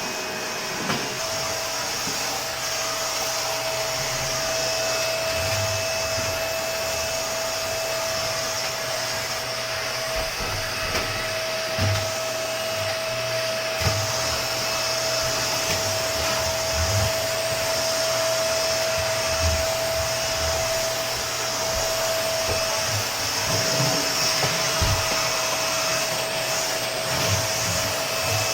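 Vacuum cleaner running steadily with a constant whine over a hiss, and short low bumps now and then.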